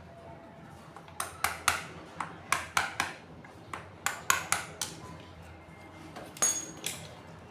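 Metal parts and tools of a water pump under repair clinking and tapping against each other: a run of sharp metallic knocks, then a louder strike about six and a half seconds in that rings briefly.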